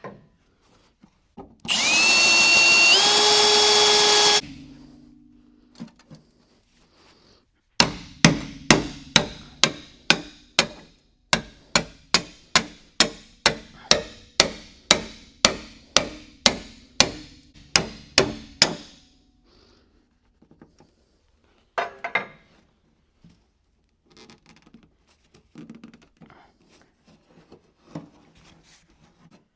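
A power drill runs for about three seconds, its pitch stepping up twice as it speeds up, drilling out a spot weld in the car's body panel. After a pause, a hammer strikes metal about twice a second for some eleven seconds, driving a seam-splitting tool between the welded panels to part them. A few light knocks follow.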